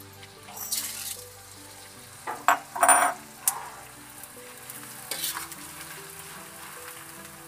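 Edible gum (gond) frying in hot ghee in an iron kadhai, sizzling steadily as it foams and puffs up. There are a few sharp, louder sounds about two to three seconds in, and a metal skimmer stirs the pan near the end.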